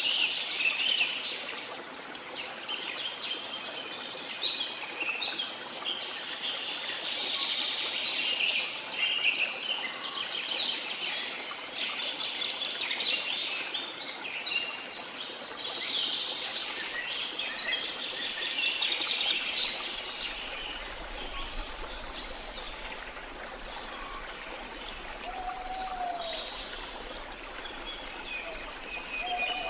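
Dense chorus of many small birds chirping and trilling over a steady rush of falling water. Two short, lower whistled calls come in near the end.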